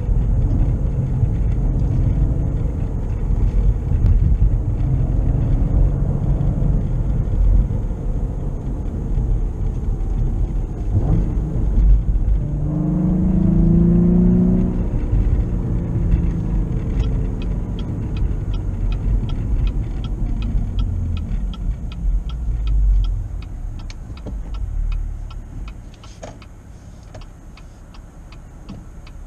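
The 2016 Cadillac ATS-V's twin-turbo V6 is driving under way, heard from inside the car. It pulls hard with a rising rev about halfway through, then settles quieter near the end. From about the middle on, a regular ticking runs under the engine.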